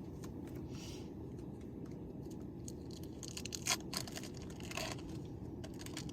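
Plastic crinkling and short scrapes as cheese slices are handled and unwrapped, over a steady low rumble.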